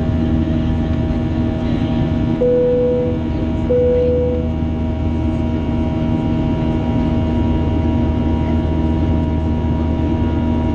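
Boeing 737 jet engines droning steadily in the passenger cabin in flight, a constant hum with several fixed tones in it. About two and a half seconds in, two short chime tones at the same pitch sound one after the other, a cabin chime.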